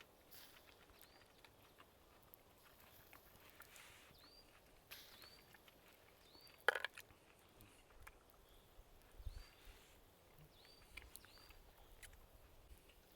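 Quiet forest ambience: a small bird repeating a short chirp roughly once a second, with scattered faint clicks and one sharper click about seven seconds in.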